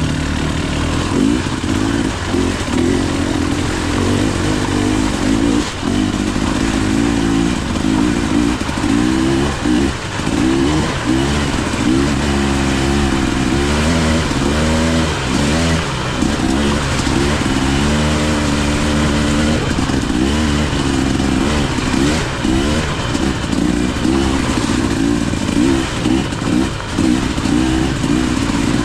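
KTM EXC 300 two-stroke dirt bike engine being ridden hard, its pitch rising and falling continually with constant throttle changes.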